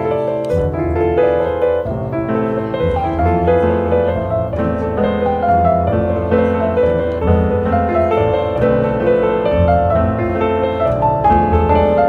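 Background piano music: a calm, classical-style piece with notes held over a steady bass line.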